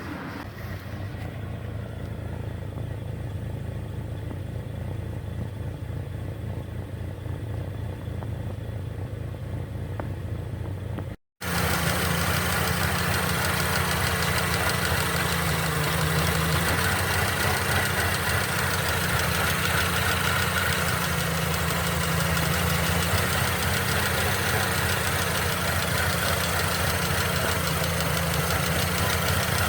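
Mercedes-Benz M271 1.8 CGI Kompressor supercharged four-cylinder engine idling steadily, recorded to show an engine problem. About 11 seconds in there is a brief cut to silence, after which the engine is louder and brighter, as if heard from closer.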